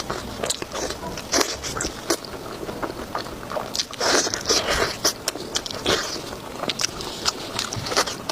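Close-miked eating: biting and chewing with many sharp wet mouth clicks, and a louder, longer stretch about four seconds in.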